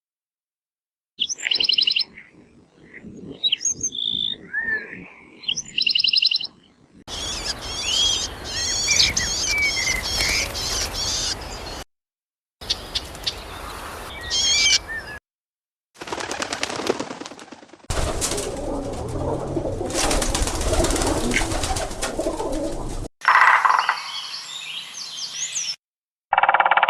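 A string of about six short bird recordings cut one after another, separated by brief silent gaps, with chirping and whistled calls of different birds. Two of the clips carry a heavy rushing background noise under the calls.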